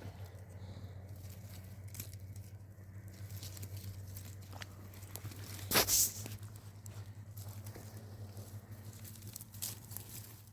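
Rustling, crinkling handling noises with scattered clicks, and one louder tearing or crumpling burst about six seconds in, over a steady low hum.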